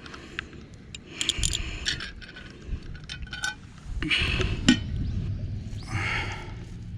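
Hard objects being handled: scattered sharp clinks and clicks, with a few short rasping scrapes.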